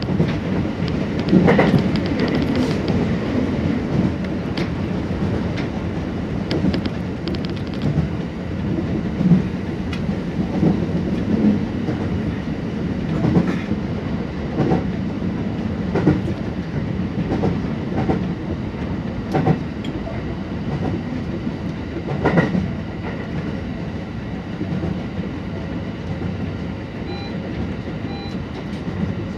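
Kintetsu Nara Line rapid express electric train running at speed, heard from inside the front car: a steady rolling rumble with irregular sharp clicks as the wheels cross rail joints. It is louder for the first few seconds while an oncoming train passes alongside.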